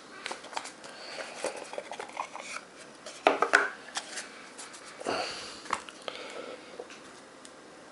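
Card packaging being handled and opened: irregular clicks, taps and rustling, with louder clatter about three seconds in and again around five seconds in.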